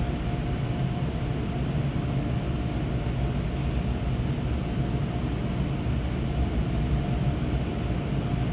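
Steady low mechanical hum with a faint, even higher tone over it, unchanging throughout.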